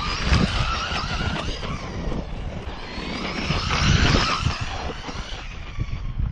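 Traxxas Rustler 4x4 RC truck's electric motor and drivetrain whining, the pitch rising and falling as the throttle is worked, loudest about four seconds in, over a rough low rumble.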